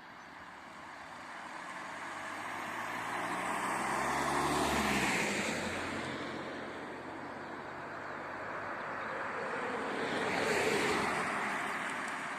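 Two road vehicles drive past one after the other, each getting louder and then fading. The first peaks about five seconds in, its engine note dropping in pitch as it goes by; the second peaks near the end.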